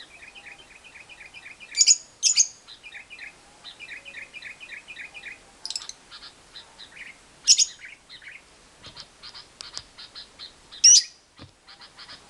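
Lovebird singing its long 'ngekek' chatter: fast runs of short, repeated chirping notes, several a second, broken by four loud, sharp shrieks, two close together about two seconds in, one past the middle and one near the end.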